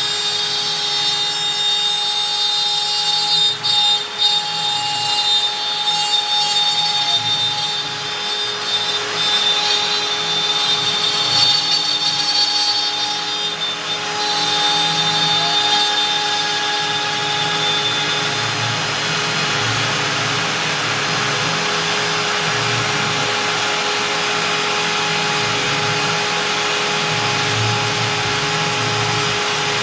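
Stepcraft M1000 CNC router spindle running at 25,000 rpm with a 4 mm two-flute up-down compression bit cutting out a part in beech: a steady whine over the grinding cutting noise. The noise is uneven for the first half and settles to a steadier sound about halfway through.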